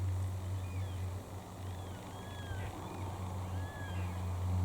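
Faint short bird calls, each note rising and falling, repeated many times over a steady low hum.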